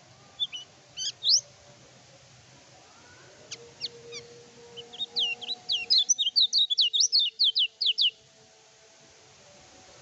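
Kecial kuning, a white-eye kept as a songbird, singing vigorously: a few scattered high, sharp chirps, then about three seconds of rapid, rising and falling notes about five seconds in.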